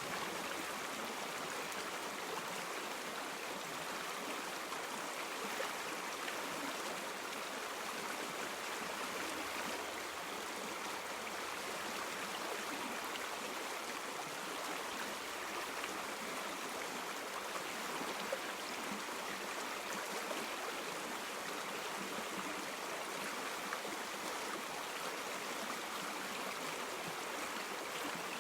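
River water running over stones in a steady, even rush with fine gurgling detail.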